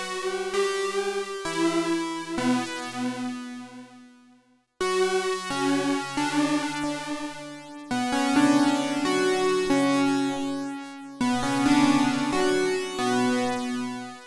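Sequential OB-6 analog polysynth playing sustained chords with a cross-modulated (poly mod) patch and no effects. The chords fade between strikes, with a short quiet gap about four and a half seconds in and new chords about five, eight and eleven seconds in.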